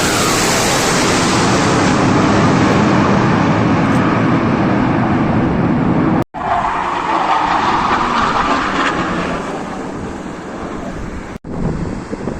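Loud jet aircraft engine noise from planes flying past. It breaks off abruptly twice, about six seconds in and again near the end.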